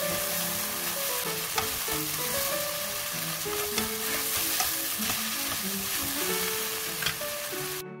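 Ramen noodles with sliced onion, carrot and garlic sizzling in a hot nonstick wok as they are tossed with chopsticks and a spatula, with a few sharp clicks of the utensils against the pan. The sizzling cuts off suddenly near the end.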